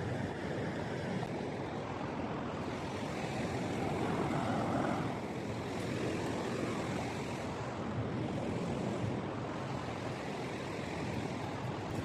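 Ocean surf washing onto the beach: a steady rushing that swells about four seconds in.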